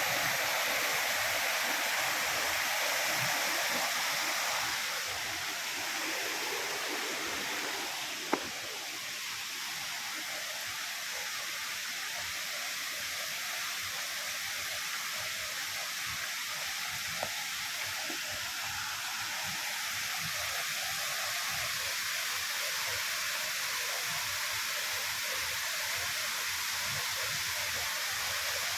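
Waterfall rushing steadily, with a single sharp click about eight seconds in.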